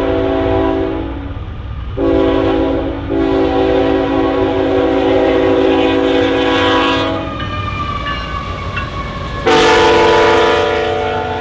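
Norfolk Southern freight locomotive's air horn blowing in three blasts, a short one, a long one and another near the end, its pitch dropping after the long blast as the locomotive goes by. The rumble of the train runs underneath.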